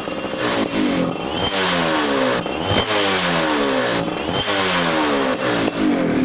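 Yamaha F1ZR two-stroke motorcycle engine through an aftermarket racing exhaust, revved in about five quick throttle blips, the pitch falling back after each one.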